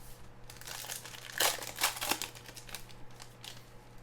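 Crinkling of plastic card wrapping being handled, a run of rustles starting about half a second in, loudest around the middle, then fainter.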